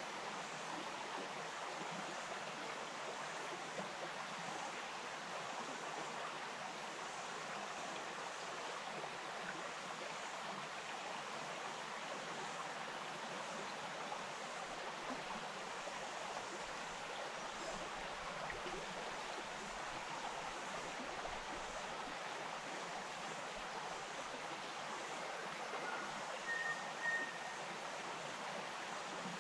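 A bush stream flowing with a steady, even rush of water. Near the end there is a brief high whistle-like note.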